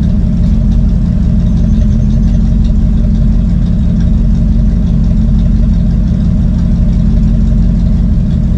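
1965 Ford Mustang Fastback's engine idling steadily, heard from inside the car's cabin while it is still warming up to temperature.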